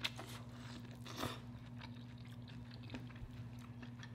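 Boiled corn on the cob bitten into and chewed, with a sharp bite at the start and another short crunch about a second in, then soft chewing. A low steady hum runs underneath.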